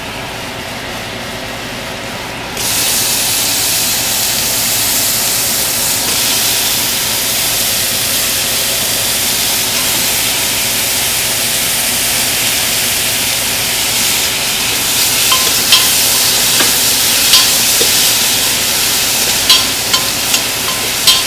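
Chopped tomatoes tipped into hot oil and frying onion masala in a metal pot: the sizzle jumps suddenly louder about two and a half seconds in and keeps up steadily. Sharp clicks and pops join it near the end as the pot is stirred.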